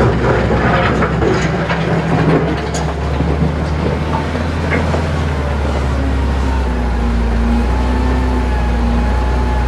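Heavy diesel earthmoving machinery running with a steady low engine drone, with metallic clanking and rattling in the first few seconds.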